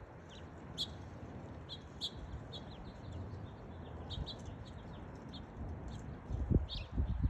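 House finches chirping: many short, high chirps in quick, irregular succession. A few low thumps come near the end.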